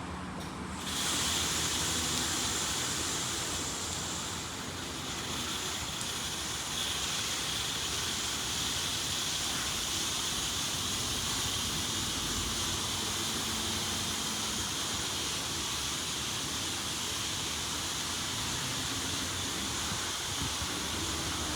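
LaserWash G5 touchless car wash spraying water onto the car, a steady hissing spray that starts abruptly about a second in.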